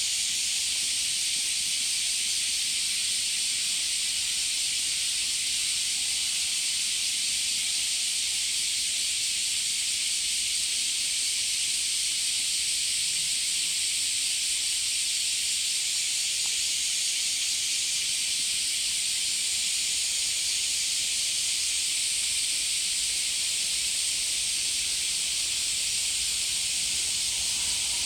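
A chorus of cicadas shrilling steadily: a dense, high, unbroken hiss that neither pauses nor changes.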